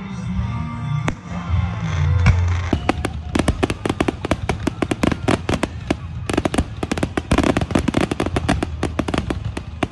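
Music playing, then from about three seconds in a rapid barrage of aerial firework shells bursting, many bangs a second.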